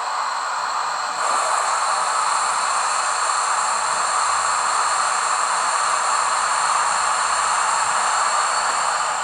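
Hornby Flying Scotsman model locomotive's onboard sound playing a steady steam hiss, which steps up a little about a second in.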